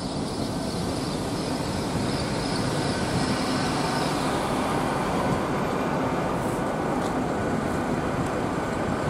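A Hitachi Class 800-series intercity train's carriages running past at speed: a steady rumble and rush of wheels on rail that grows a little louder in the first couple of seconds and then holds.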